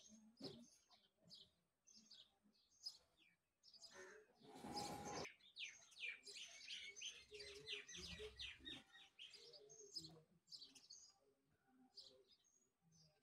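Faint small birds chirping in short, quick notes, in a fast run of chirps from about six to nine seconds in. A brief rush of noise comes about four seconds in.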